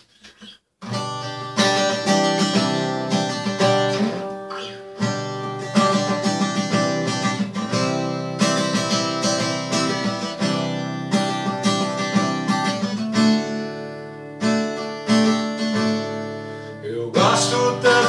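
Acoustic guitar playing a plucked and strummed instrumental introduction, starting about a second in.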